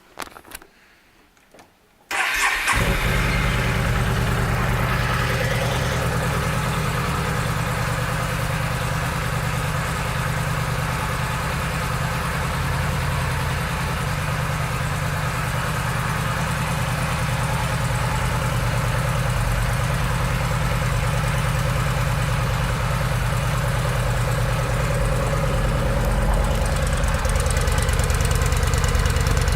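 2014 Yamaha V-Star 950's air-cooled V-twin engine starting about two seconds in, after a few faint clicks, then idling steadily.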